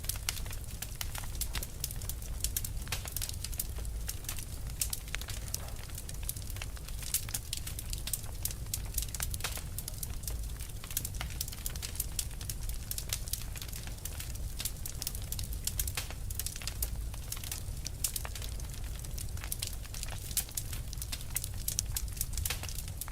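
Burning fire crackling: many irregular sharp pops and snaps over a low steady rumble.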